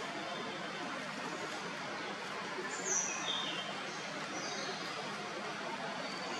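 Steady outdoor background hiss, with a few short, high bird chirps from about three seconds in.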